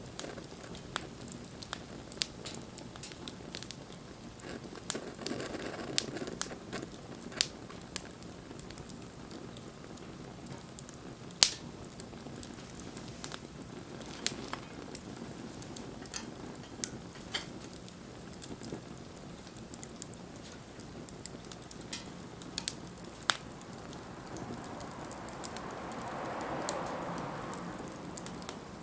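Wood fire burning with a steady low hiss and scattered sharp crackles and pops, the loudest pop about eleven seconds in. A soft rushing swell rises and fades near the end.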